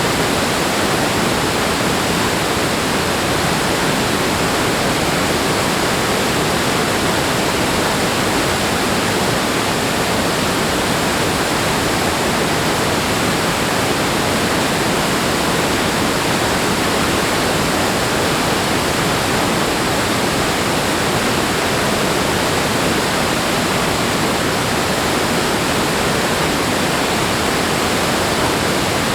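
Steady rush of falling or flowing water: an unbroken roar without surges or pauses.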